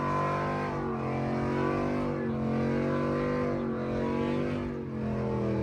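Vehicle engine running steadily, its pitch drifting gently up and down.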